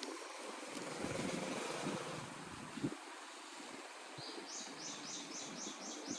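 Quiet outdoor background noise. About four and a half seconds in, a bird starts a rapid run of repeated chirps, about five a second.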